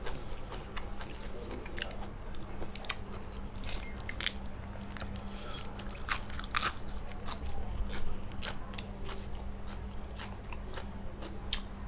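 A person chewing and crunching food close to the microphone while eating lightly blanched shrimp laab, with many sharp, irregular mouth clicks and crunches.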